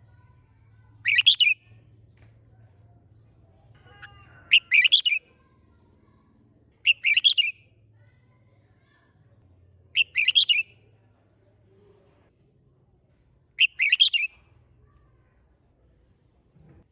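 Red-whiskered bulbul singing: five short, loud chirping song phrases, spaced about three seconds apart.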